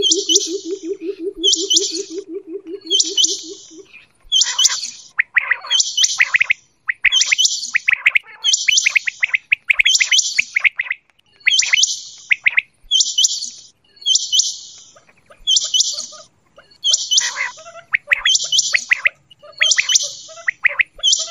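Quail calling: a high call repeats about every second and a quarter, with a low, rapid pulsing call during the first four seconds and quicker lower chirps between the high calls later on.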